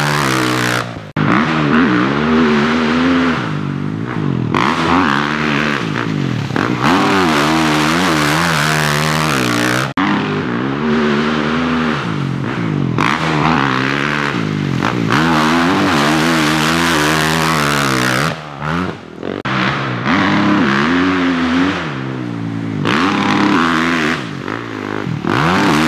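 Dirt bike engine revving up and falling back over and over as it is ridden round a muddy track, with brief drops off the throttle a few times.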